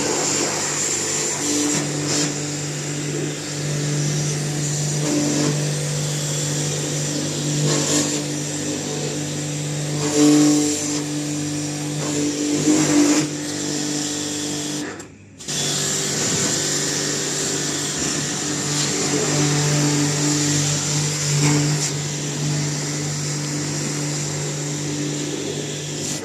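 Electric motor running steadily with a low two-pitched hum and a hiss, during the servicing of an air conditioner's motor. It cuts out briefly about 15 seconds in, then runs on.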